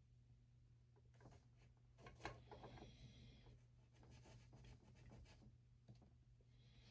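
Faint scraping and small clicks of a blade slicing a small plastic tube lengthwise, with two short hissy scrapes.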